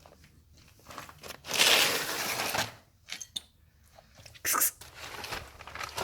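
A cat crunching and chewing on a caught mouse in irregular bursts, with a loud spell of crunching about a second and a half in.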